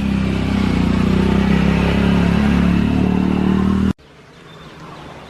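A motor vehicle's engine running close by and slightly rising in pitch, then cutting off suddenly about four seconds in, leaving faint outdoor background.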